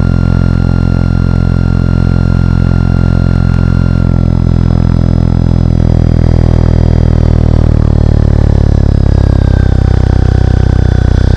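Large brushless electric motor spinning a three-blade propeller on a test stand, running steadily with a deep propeller hum and thin high electric whines that shift in pitch about halfway through.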